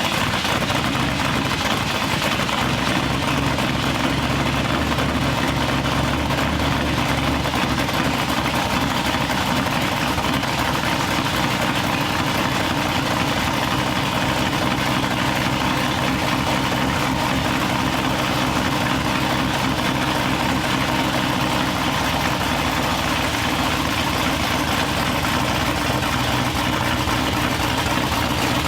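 Cammed small-block Chevy V8 running steadily at an even engine speed, with no revving.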